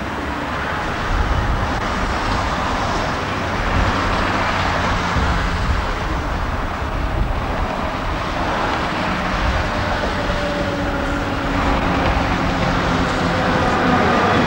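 Budapest HÉV suburban electric train approaching, its running rumble growing steadily louder as it nears. A thin whine joins in over the last few seconds.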